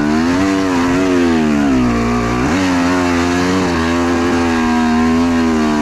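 Two-stroke enduro motorcycle engine running under load, its pitch rising and falling as the throttle is worked, with a quick rise about two and a half seconds in.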